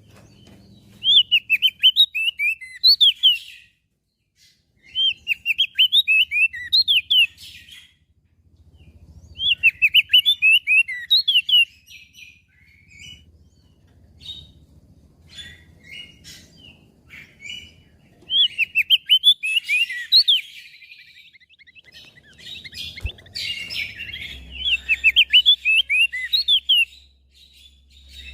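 An opior jambul (crested white-eye) singing: short bursts of rapid, high warbling chatter, each lasting a couple of seconds, repeated about five times, with single chirps in the gaps between them.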